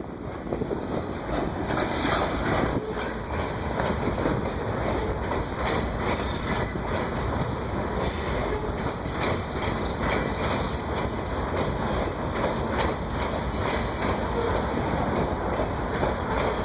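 Freight cars of a coal train rolling past, a continuous rumble with a steady run of wheel clacks over the rail joints.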